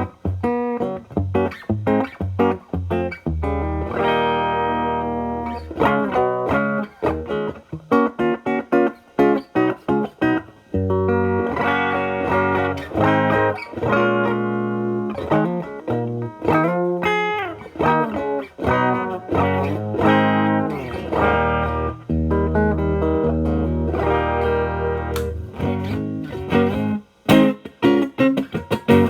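Electric guitar played clean, a Telecaster with single-coil alnico pickups through the clean channel of a Marshall Valvestate amp, with no distortion. It plays a mix of short picked chord stabs, single notes and held chords. From about seven seconds in, the signal runs through a bypassed MXR Distortion pedal.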